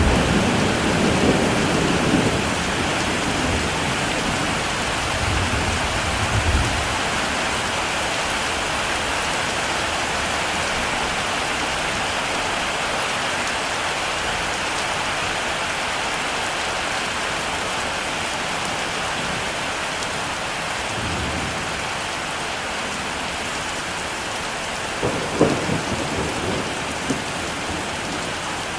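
Heavy rain falling steadily, with thunder rumbling low in the first few seconds and again about six seconds in, a faint distant rumble later, and a sharper crackling peal of thunder about 25 seconds in.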